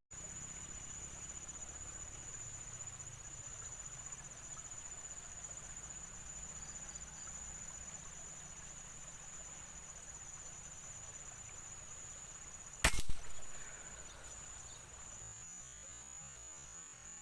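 An insect chirrs steadily at a high pitch, with a faint pulse. About thirteen seconds in comes one sharp crack of a PCP air rifle firing, the loudest sound here.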